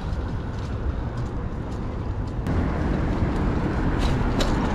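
City traffic noise heard from a bicycle on the street: a steady low rumble that grows louder about halfway through, with a couple of faint clicks near the end.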